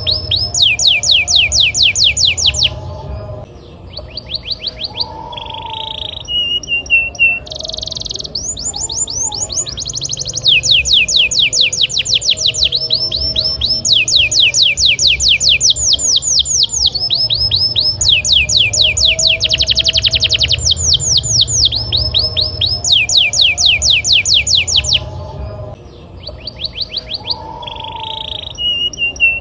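Canary singing at full volume: long rolls of fast, repeated descending notes in phrases of a few seconds, broken by short pauses and a lower held note, over a low hum.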